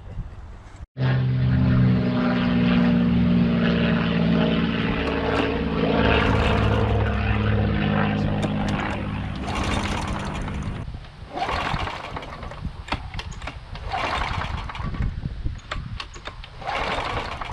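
Walk-behind lawn mower engine running steadily. About ten seconds in the engine note stops, leaving only irregular short noises.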